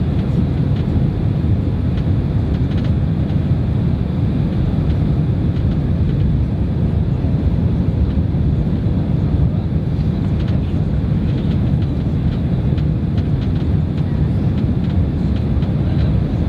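Steady engine and airflow noise inside the cabin of a Boeing 767-300 airliner, a constant low rumble with a few faint clicks.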